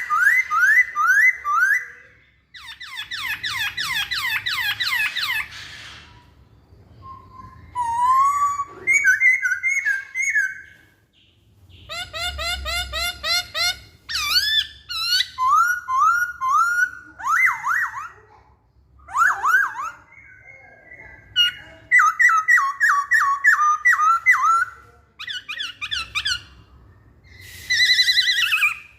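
Chinese hwamei (melodious laughingthrush) singing: varied whistled phrases of rapidly repeated notes, delivered in bouts a few seconds long with short pauses between them.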